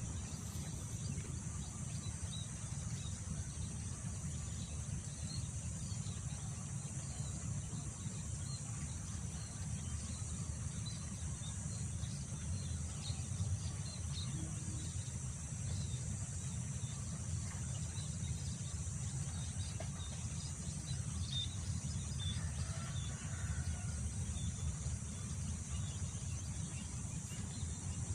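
Wind buffeting the microphone as a steady low rumble, under a continuous high-pitched drone of insects. Faint short bird chirps come and go throughout.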